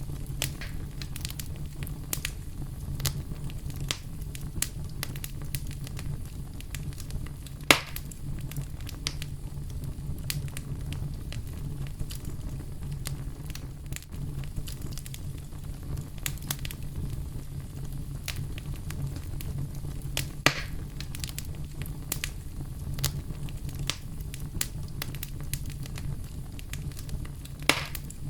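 Campfire burning with a steady low rush and frequent sharp crackles and pops from the burning wood, a few louder pops standing out, one about eight seconds in, one about twenty seconds in and one near the end.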